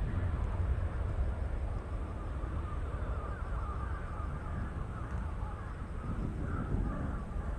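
Crows cawing repeatedly over a steady low rumble.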